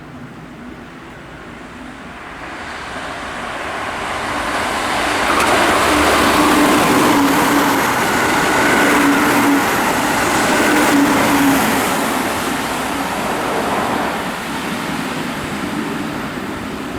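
Keihan 13000 series electric train passing through a station at speed: wheel and rail noise with a steady motor tone. It builds over the first few seconds, is loudest from about five to twelve seconds in, then fades.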